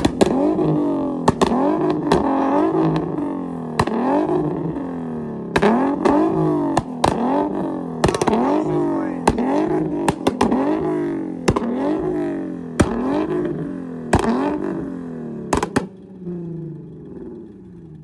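V8 engine of a fourth-generation F-body (LS1) being revved again and again, each rev climbing and falling back, about one every second and a quarter. Sharp exhaust pops and cracks come between the revs. The revving stops about two seconds before the end.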